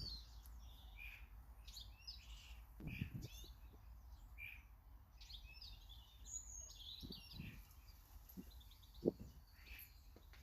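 Small garden birds chirping and calling in short high notes and trills, faint, with a few soft low thumps scattered through, the last near the end the loudest.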